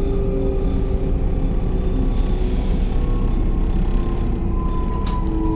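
Electric commuter train running, heard from inside: a steady low rumble with a faint whine that slowly rises in pitch near the end.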